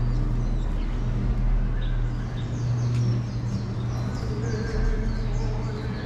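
Small birds chirping repeatedly over a steady low hum of traffic or engine noise.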